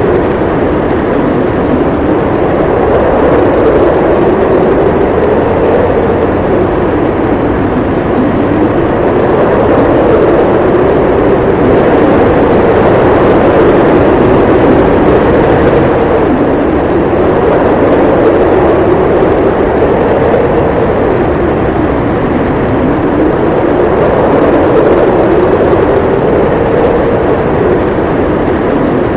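Strong blizzard wind howling: a steady rush of noise with a moaning tone that slowly rises and falls in pitch every few seconds.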